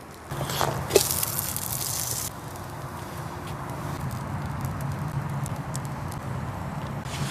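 Hamburger meat sizzling over a campfire, with the fire crackling. A loud hiss for the first two seconds stops abruptly, and a steadier, quieter sizzle follows.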